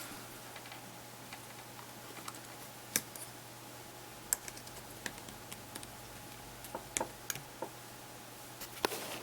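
Sparse, faint clicks and taps of small plastic parts of a Samsung Galaxy Player 5.0 being handled and fitted back together during reassembly. The clicks come irregularly, a few of them sharper, about three seconds in, near the end, and a pair around seven seconds.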